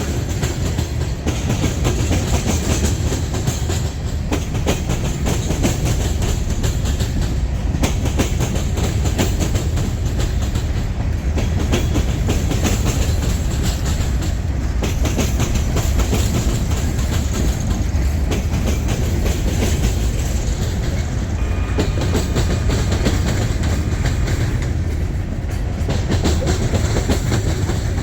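Freight train rolling past: a steady rumble of cars, with wheels clacking over rail joints.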